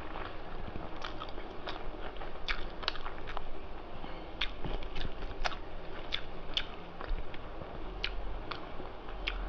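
Close-up mouth sounds of a person chewing a mouthful of rice and mutton curry: sharp, wet smacking clicks at an irregular pace.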